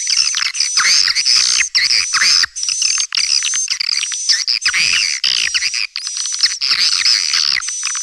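Recorded edible-nest swiftlet calls played as a swiftlet-house lure: dense, rapid twittering chirps with a thin high note in each phrase, repeating about twice a second.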